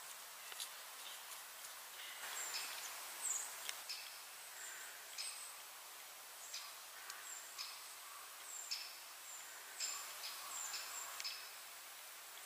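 Small birds calling in woodland: many short, high chirps and whistles, a few every second, over a faint steady hiss.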